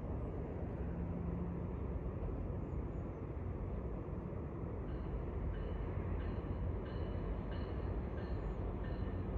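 Approaching GO Transit diesel commuter train rumbling low and steady. About five seconds in, a bell starts ringing at roughly three strokes every two seconds, as the train's bell is sounded nearing the station.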